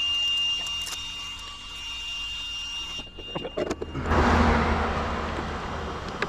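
Team Corally Kagama electric RC car: a steady high whine, then about four seconds in a sudden loud rush of motor and tyre noise that slowly fades.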